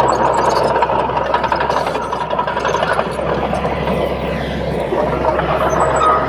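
Crawler bulldozer's diesel engine running steadily, with a dense mechanical clatter throughout.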